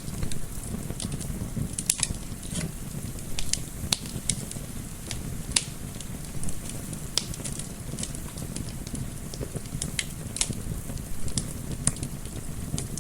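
Wood fire crackling, with irregular sharp pops several times a second over a low steady rumble, and a soft wind mixed in behind it.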